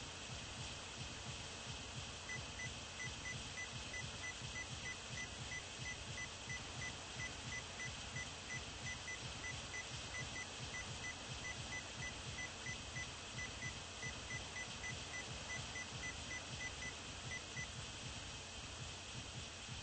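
Low, pulsing rumble of a vehicle running, under a steady hiss. A regular high tick or beep repeats about two to three times a second, starting a couple of seconds in and stopping near the end.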